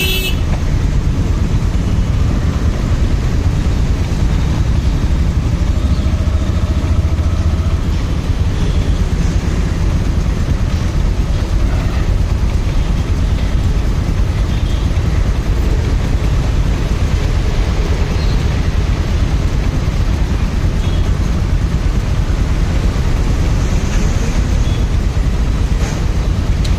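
Motorcycle on the move: steady engine and road rumble heard from the rider's own bike, without pauses.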